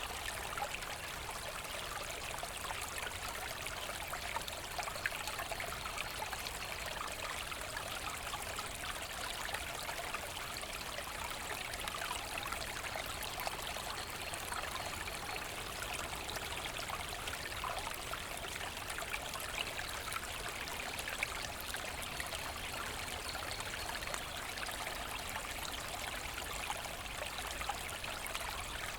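A small forest brook running steadily, water trickling and splashing over stones in an even, continuous rush.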